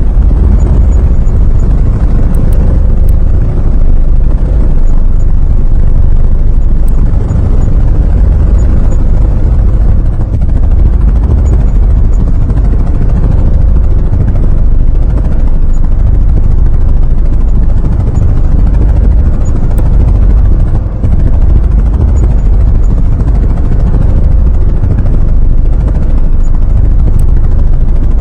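Helicopter running steadily: a loud, continuous low rumble of rotor and engine.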